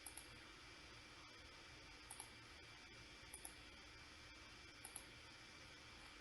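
Faint computer mouse clicks, coming in quick pairs four times, over a steady low hiss.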